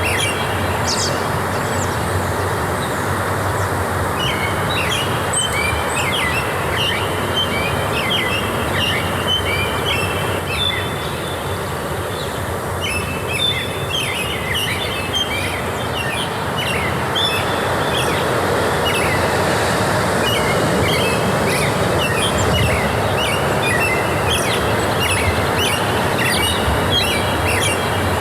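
Several small birds chirping and singing in quick repeated phrases over a steady low, even rush of noise.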